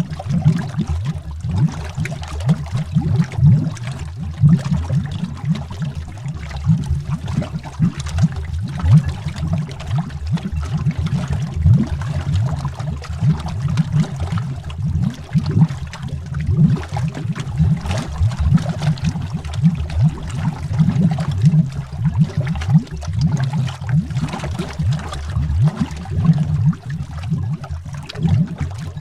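Water bubbling heard underwater: a dense, continuous stream of bubbles, deep and gurgling, with many small irregular pops.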